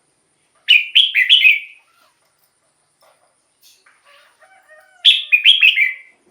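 Red-whiskered bulbul singing: two short loud phrases, each of three or four quick falling notes, about four seconds apart, with a few faint softer notes in between.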